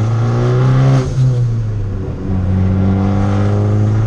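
Tuned 2013 Fiat 500 Abarth's turbocharged four-cylinder engine running under throttle. About a second in the revs and loudness drop briefly, as on a gear change or lift-off. From about two seconds in it pulls steadily again.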